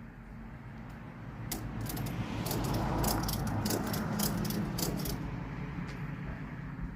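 Metal tools or hitch hardware clinking and clicking in a quick run of sharp strikes, about four a second at their busiest. Under them a low rumble swells and then eases.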